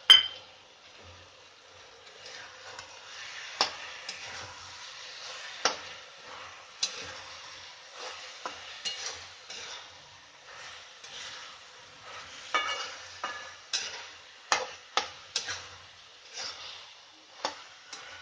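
Vegetables sizzling in a hot pan while a metal spoon stirs them, with sharp scrapes and clinks of the spoon against the pan at irregular moments, several coming close together near the end.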